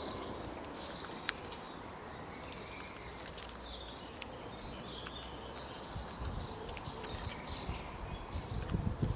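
Several small birds chirping and twittering in quick clusters of short high notes over a steady background hiss. Low rumbling thumps join in the last few seconds.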